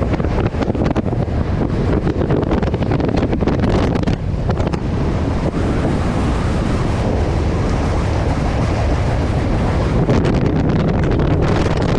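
Wind rushing over the microphone on a mountain bike descending fast downhill, with a dense rattle of clicks and knocks from the bike over rough ground. The rattle is heaviest in the first few seconds and again near the end.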